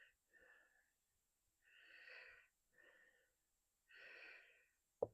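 A man breathing audibly, with a faint wheeze, in slow breaths in and out, two longer and two shorter. A sharp metal click sounds near the end.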